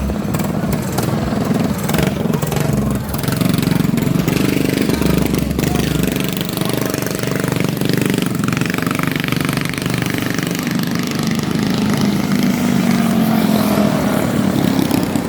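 Mini bike's small engine running steadily, its note rising and falling a little with the throttle.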